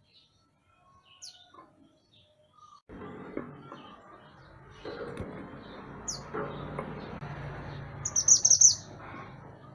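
Mantenan gunung bird calling: scattered short high chirps, then a loud rapid string of high notes about eight seconds in. From about three seconds in, a steady low background noise runs under the calls.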